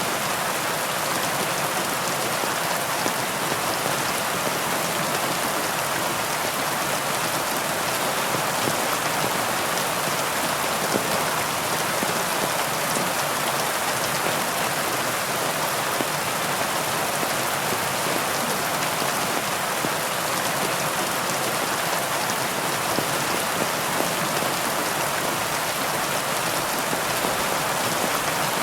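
Steady heavy rain, a dense even hiss of raindrops falling on leaves, with scattered individual drop ticks.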